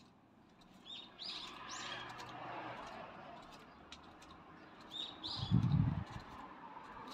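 Small birds chirping in short paired calls, about a second in and again around five seconds, over faint background noise. A low thump just before six seconds is the loudest sound.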